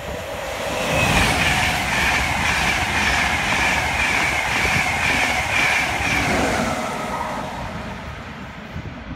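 High-speed passenger train passing through the station non-stop at speed: a rush of wheel and air noise with a high whine that swells about a second in, holds for several seconds, then fades away near the end.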